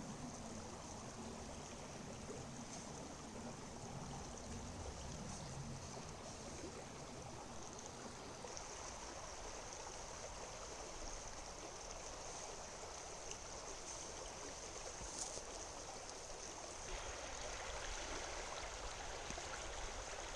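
Faint, steady rushing of a river flowing past.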